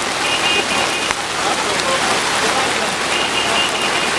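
Heavy rain pouring down steadily. Two short runs of rapid high beeps sound over it, one near the start and one from about three seconds in.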